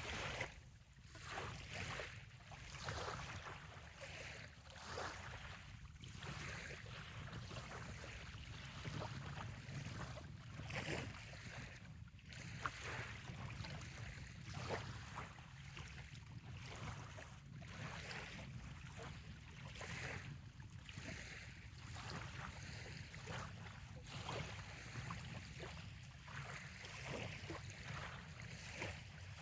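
Small waves lapping gently on a sandy bay shore, a run of soft irregular splashes over a steady low rumble.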